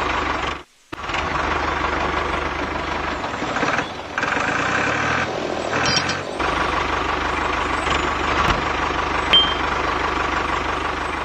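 Small motors of a DIY mini construction machine running steadily with a whir and a low hum. The sound stops abruptly for a moment about a second in, then resumes and changes briefly a few times.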